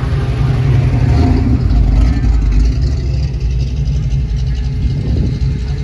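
A car's engine rumbling as it drives past, swelling about two seconds in and then easing off.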